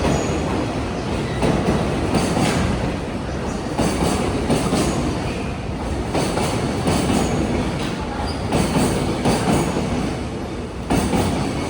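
Container freight train rolling past. There is a continuous rumble of wheels on rail, with a rhythmic clatter that comes and goes as the wheel sets cross the rail joints.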